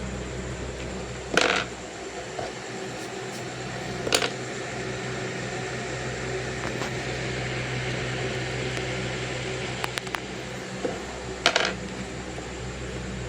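Steady mechanical hum with a hiss over it, broken by three short sharp knocks, one about a second and a half in, one about four seconds in and one near the end, with a few faint clicks just before the last.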